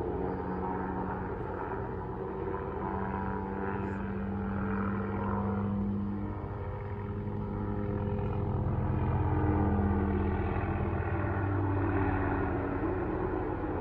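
Police helicopter circling overhead, its steady rotor and engine drone swelling and easing in loudness as it comes around, loudest near the end.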